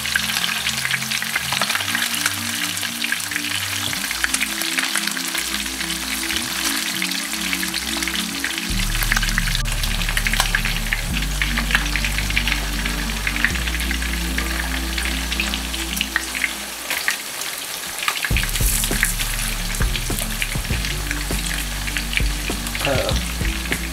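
Breaded trout cakes sizzling and crackling in hot oil in a nonstick frying pan.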